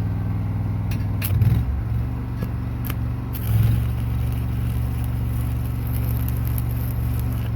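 Stick-welding arc crackling as a tack weld is laid with a 7018 rod, after a few sharp strikes of the electrode. Underneath, an engine runs steadily and swells briefly twice.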